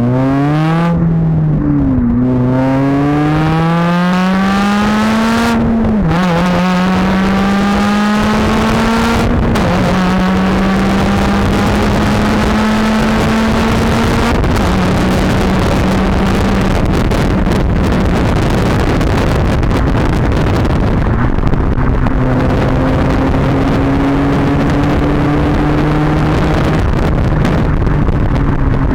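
Honda Civic Type R FN2's 2.0-litre four-cylinder engine through a Magnaflow exhaust, accelerating through the gears: the note climbs and drops back at each upshift about one, two, six and nine seconds in. After that it cruises, with the note holding fairly steady and slowly rising again.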